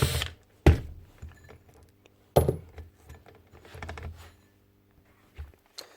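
A whirring power tool cuts off just at the start, followed by scattered clinks and knocks of metal tools and polisher parts being handled, the two loudest about a second apart, near the start.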